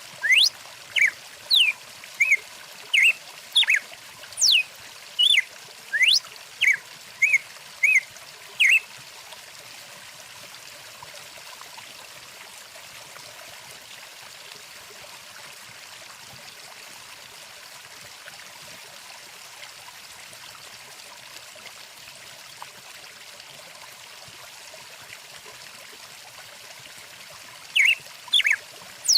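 Stream water running steadily, with a bird singing a quick series of short, sweeping chirps and whistles for the first nine seconds or so. The bird then falls silent, leaving only the water, and starts singing again near the end.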